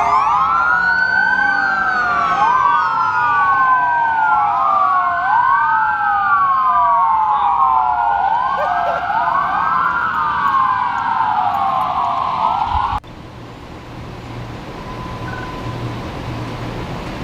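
Several police sirens wailing at once, their overlapping rises and falls, until they cut off suddenly about thirteen seconds in. Quieter, steady vehicle road noise follows.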